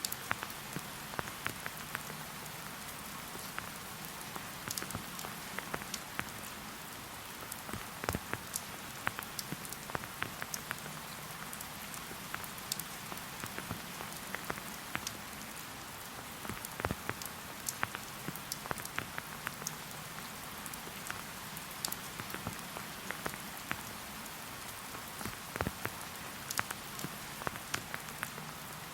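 Rain falling in a forest: an even hiss with many separate drops ticking sharply close by, at irregular moments throughout.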